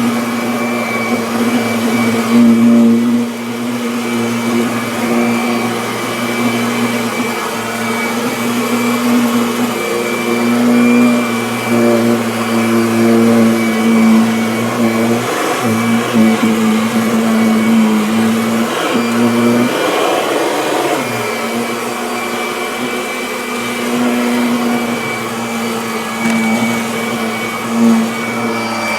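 Kirby Avalir upright vacuum cleaner running over carpet, a steady motor hum whose pitch dips briefly a few times in the second half.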